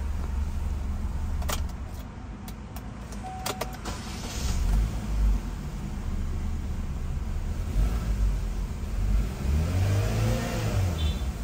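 Chevrolet Cruze engine idling unevenly, with a jerky, misfire-like stumble, then revved once near the end, the pitch rising and falling back. A few sharp clicks about one and a half to four seconds in.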